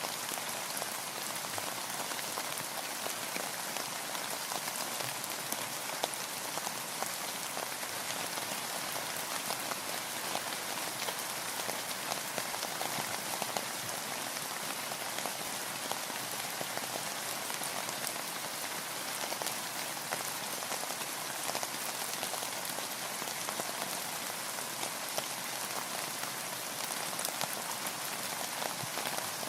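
Steady rain pattering on a boat, with many small drop ticks.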